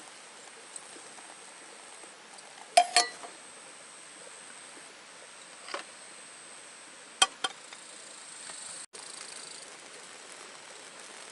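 Metal camp cookware clinking: a few sharp, ringing clinks, two close together about three seconds in, one near six seconds and two more a little after seven, over a steady faint hiss.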